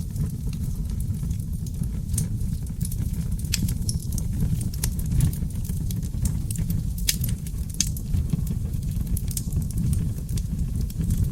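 Wood fire burning in a fireplace: a steady low rumble of flames with irregular crackles and pops from the logs.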